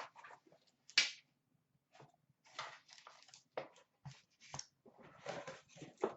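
Packaging and cards being handled as a mystery box is opened: irregular rustling and crinkling, with a sharp click about a second in.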